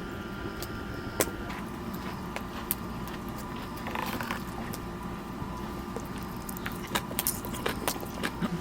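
Scattered light clicks and taps of chopsticks and tableware during a meal, over a steady low hum.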